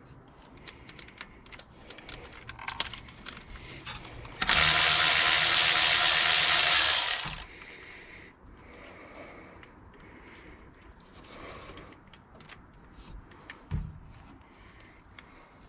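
A socket ratchet clicking in short bursts while engine bolts are loosened, with a power tool running loudly and steadily for about three seconds near the middle. A low thump near the end.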